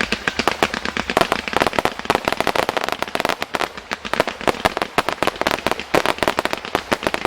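Fireworks display: a dense, continuous barrage of rapid bangs and pops, many a second.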